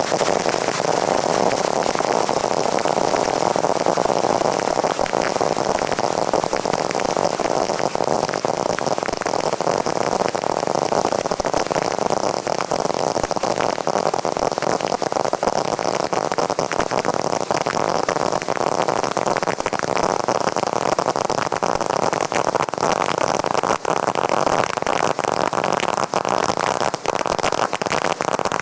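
Fireworks giving off a dense, continuous crackle: a steady rushing noise thick with small rapid pops, with no single big bangs standing out.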